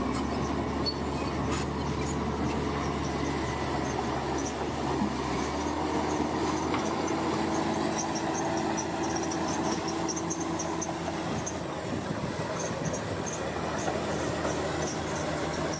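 Bulldozer's diesel engine running steadily while the machine works, with short high metallic squeaks from its tracks.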